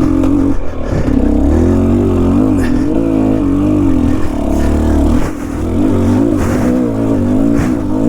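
Enduro dirt bike engine revving up and down as the throttle is worked, its pitch rising and falling in quick swells, with a couple of short knocks from the bike on the rough trail.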